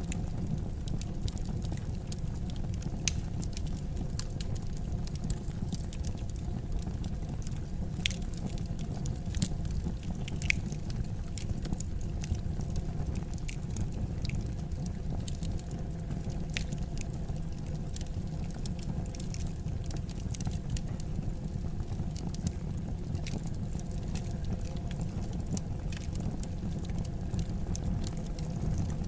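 Fire crackling in a fireplace: a steady low rumble of flame with irregular sharp pops and snaps scattered throughout.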